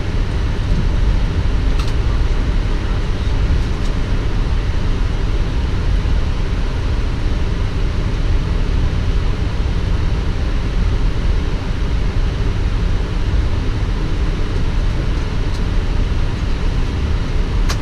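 Steady cockpit noise of a Boeing 777 taxiing: a constant low rumble with an even hiss of airflow above it, and a few faint clicks.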